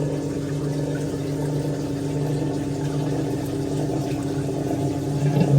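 1958 Hotpoint Empress washing machine's drain pump running, a steady hum as it pumps out the last of the dirty wash water from a nearly empty tub.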